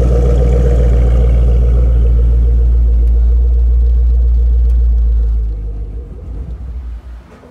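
Camaro ZL1's supercharged LSA V8 running with its fuel pump fuse pulled. About five seconds in it begins to stumble and sputter, and it dies about seven seconds in as the fuel rail pressure runs out and the engine is starved of fuel.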